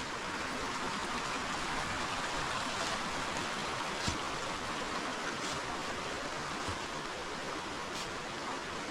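Forest river flowing, a steady rushing of water, with a few brief sharp ticks over it.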